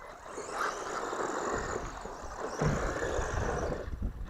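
Small electric hobby-grade RC car driving, its motor and gears whining with tyre noise on rough ground. A low rumble joins about a third of the way in, with a brief knock a little after halfway.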